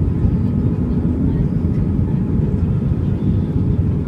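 Steady in-flight cabin noise of an Airbus A320: a constant low rumble of engines and airflow.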